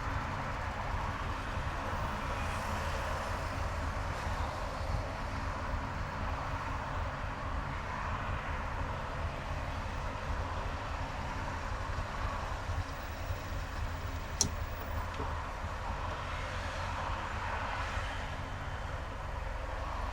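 Steady road and engine noise of a car driving on a highway, with a single short click about two-thirds of the way through.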